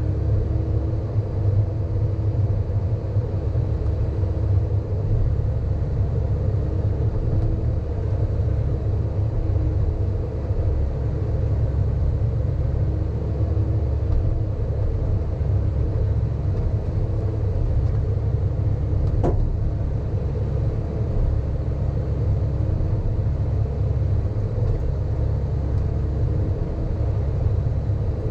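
Sany hydraulic excavator's diesel engine running steadily under working load, a continuous low rumble with a faint held hum above it. One short click about two-thirds of the way through.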